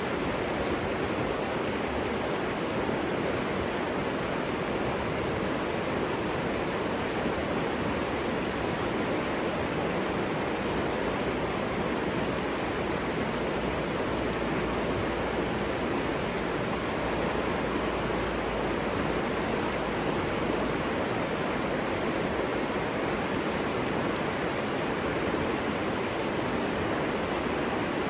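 River water flowing over rocks: a steady, even rush with no change in level.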